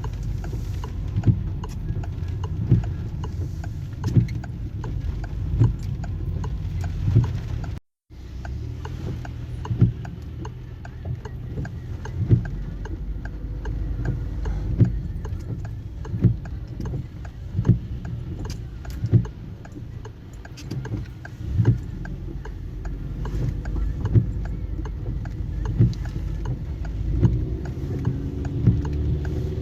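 Steady low rumble with a soft knock repeating about every second and a half, cutting out briefly about eight seconds in.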